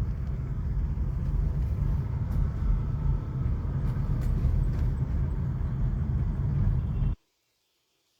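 Strong storm wind buffeting the microphone: a heavy, continuous low rumble of gusting air. It cuts off suddenly about seven seconds in.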